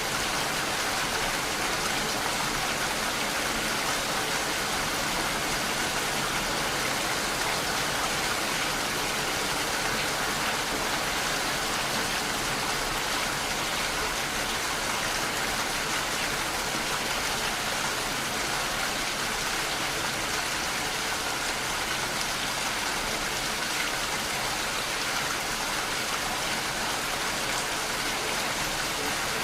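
Steady rain falling without letup, an even hiss of drops with no thunder or pauses.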